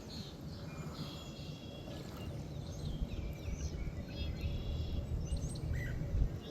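Several short, high bird chirps and calls against a steady low outdoor rumble.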